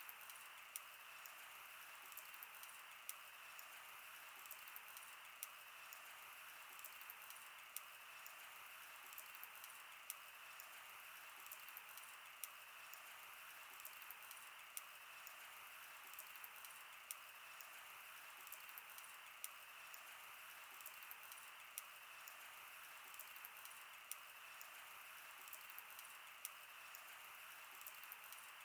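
Wood fire crackling: many small, sharp pops at an irregular pace over a faint, steady hiss.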